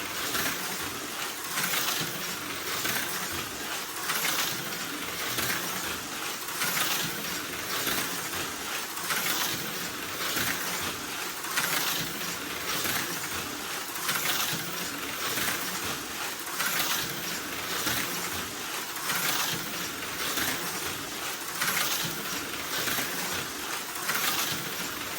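HO-scale slot car with a Viper V3 chassis running laps on a track: a whirring, rattling buzz that swells each time the car passes, about every two and a half seconds.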